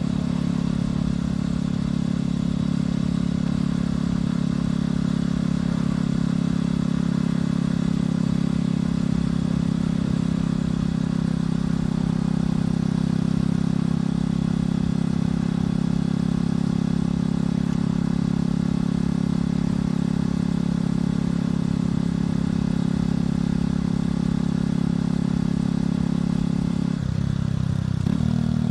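Motorcycle engine and exhaust running at a steady, even pitch while riding. Near the end the engine note drops in steps, as the bike slows and changes gear.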